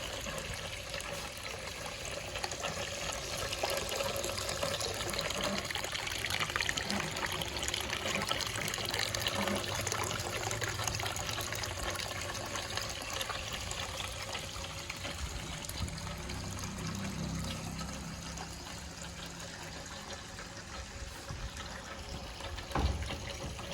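Water trickling steadily down a small homemade garden waterfall fountain, with a single brief knock near the end.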